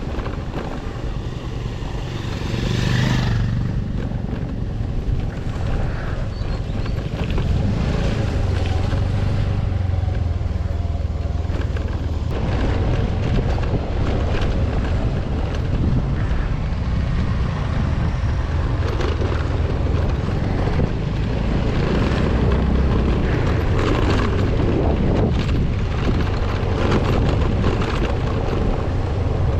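A motor vehicle's engine runs steadily on a rough road, with frequent knocks and rattles from bumps and wind buffeting the microphone.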